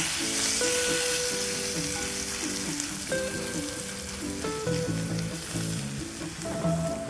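Food sizzling as it fries in butter in a pan, the sizzle slowly dying down, with background music of a plucked melody over it.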